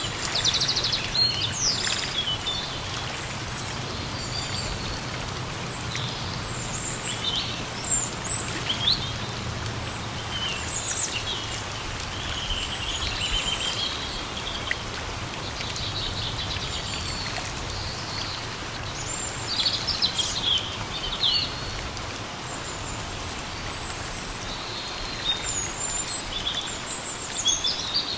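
Steady rain falling, with birds chirping and calling on and off over it.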